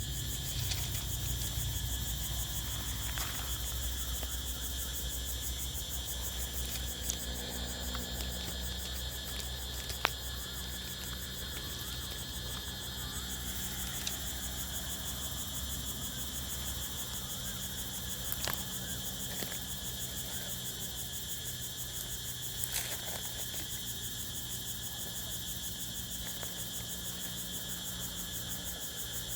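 Evening forest ambience: a steady, continuous chorus of crickets and other insects trilling at several high pitches, over a low rumble of wind. A few brief sharp clicks stand out.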